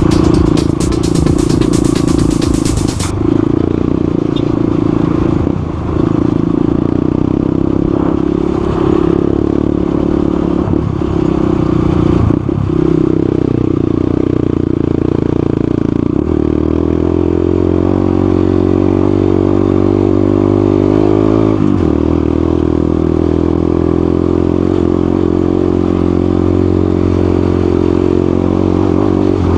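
Motorcycle engine running while riding. The engine note shifts with throttle and gears, settling into a lower, steadier note about halfway through, then climbs and drops suddenly a few seconds later.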